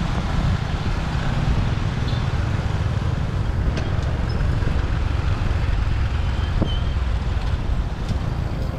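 Motorbike riding through city traffic: a steady low rumble of engine and road noise, with surrounding traffic.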